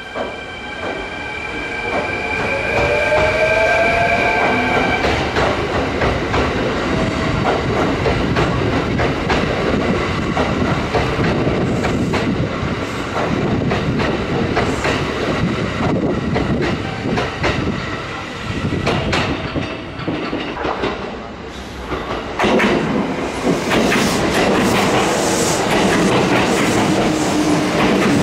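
Electric train on the Kintetsu Nara Line running at a station, its wheels clattering rhythmically over the rail joints. A rising electric motor whine is heard in the first few seconds, and a fresh surge of wheel noise comes about 22 seconds in.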